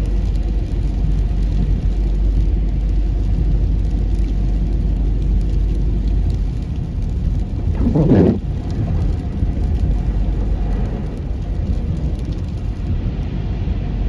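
Car tyres running through slush on a snowy road, heard inside the car as a steady rumble. A brief louder sound cuts through about eight seconds in.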